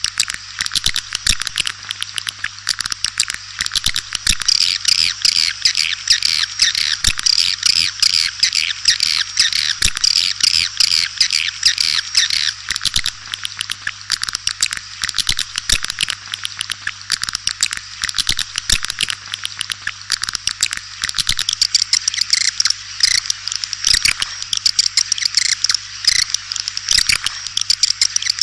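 Swiftlet lure-call recording: dense, continuous twittering of many swiftlets, fast overlapping chirps and clicks, busiest in the first half.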